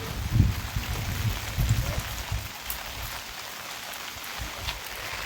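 Rain falling steadily, with a few low thumps in the first two seconds.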